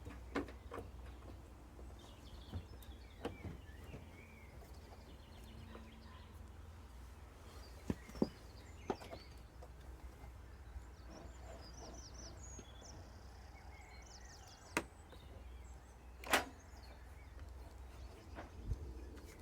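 Scattered clicks and knocks of tools and parts being handled while a tumble dryer is worked on, the loudest knock about three-quarters of the way through, over a steady low hum. Faint high chirps come in a few times.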